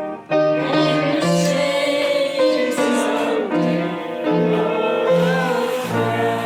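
A piano song being played in slow, held chords, with a voice singing along.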